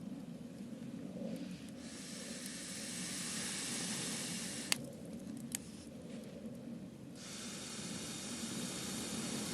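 Wood campfire burning: a high steady hiss rises about two seconds in, cuts off, and returns near the end, with two sharp crackling pops in between.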